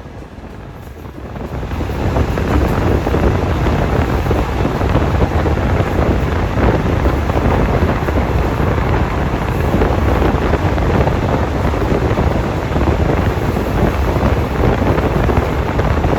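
Loud wind rushing over the microphone, with a heavy low rumble, swelling about a second and a half in and then holding steady.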